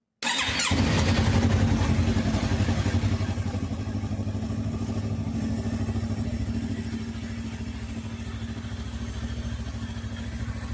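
Yamaha YZF-R3 parallel-twin motorcycle engine starting up at once and running, loudest for the first few seconds and then settling into a steady idle with an even, rapid pulsing beat.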